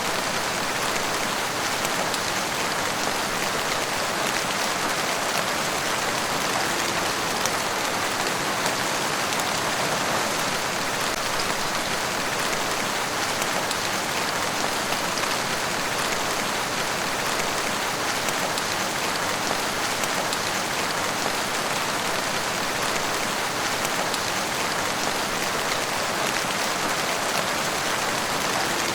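Steady, heavy rain falling on a surface, a dense even patter of drops with no let-up.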